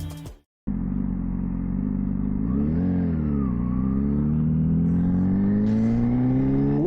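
2024 Honda CBR600RR inline-four running through an MIVV Suono slip-on exhaust. The engine speed rises and drops back briefly about three seconds in, then climbs steadily.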